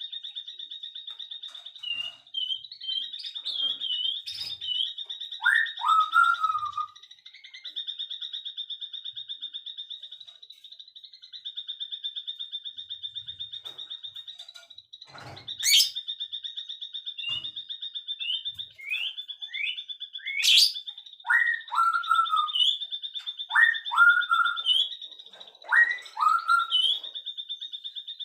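Birdsong: clusters of short whistled notes sliding downward and quick high chirps over a continuous, high, fast-pulsing trill, with a few sharp clicks.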